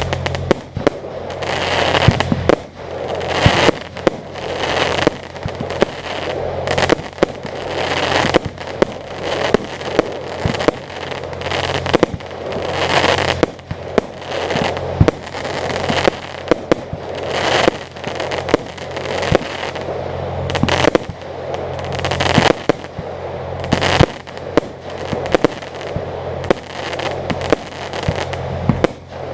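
Aerial fireworks display: a steady run of bangs and booming shell bursts, many followed by crackling, every second or so. A steady low hum lies underneath.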